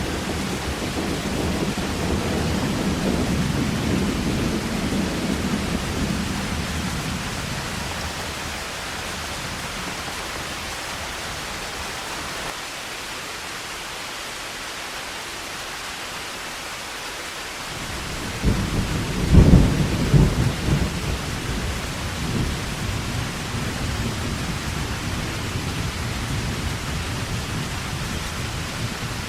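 Heavy rain pouring steadily, with thunder: a low rumble fades over the first few seconds, then a sudden loud crack of thunder comes about two-thirds of the way in and rolls on as rumbling to the end.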